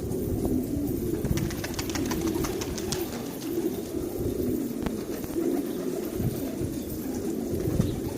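Pigeons cooing continuously, the low coos overlapping, with a few faint clicks.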